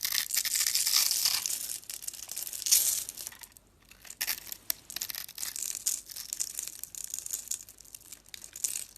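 Knife cutting and scraping through a bar of soap: a dense, crisp crackle of many small clicks, loudest in the first three seconds, with a brief pause about three and a half seconds in and lighter, scattered cuts after.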